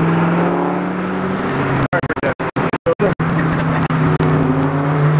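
Car engine running at steady revs, a constant droning hum. In the middle the sound drops out for split seconds several times.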